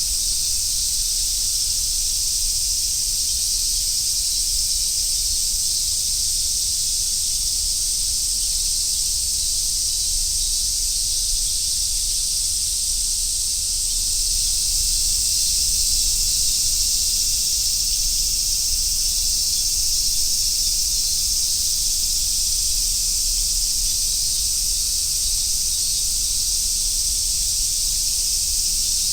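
A chorus of cicadas, a steady high sizzling drone that does not break.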